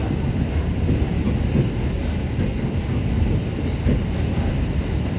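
Passenger train running along the line, heard from inside the car: a steady low rumble of wheels on rail.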